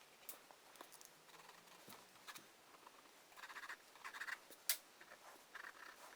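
Graphite pencil hatching on paper: short, faint scratchy strokes in several bursts in the second half, with a few sharp ticks, the loudest near the end.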